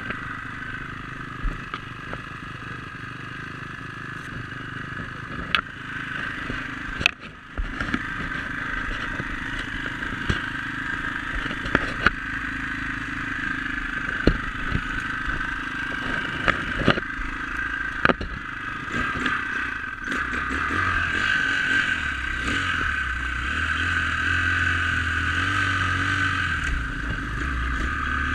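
Dirt bike engine running on a trail ride, with a brief drop in level about seven seconds in and sharp knocks and clatter scattered through it. It gets louder and steadier in the last third.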